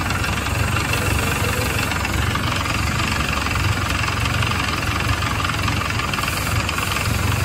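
Ford Model A's four-cylinder flathead engine idling steadily while warmed up.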